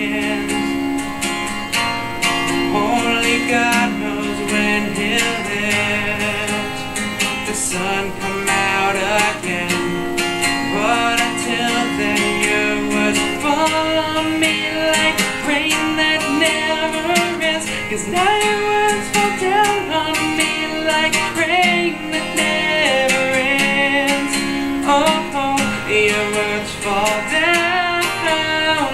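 Acoustic guitar playing an instrumental passage, strummed chords with melodic picked notes.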